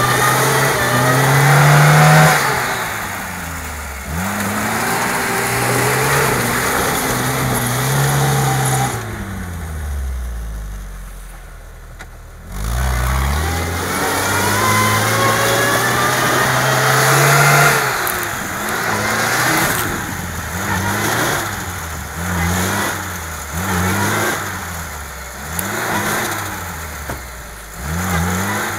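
Lada Niva engine revving hard while the car is stuck in deep mud, the revs climbing and falling again and again. About ten seconds in, the revs drop away for a couple of seconds before climbing again. In the last third come short bursts of throttle about every second and a half.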